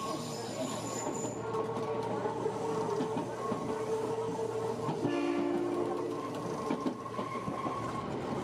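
Kintetsu electric train running at speed, heard from inside the car, with a steady whine over the rail noise. About five seconds in, a two-note train horn sounds for just under two seconds.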